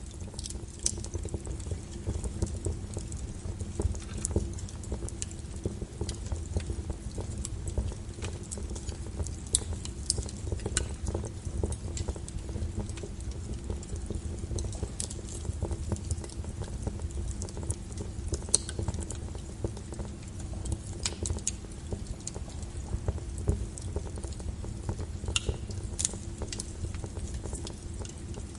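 Log fire burning in a fireplace: irregular crackles and sharp pops from the burning wood over a steady low rumble.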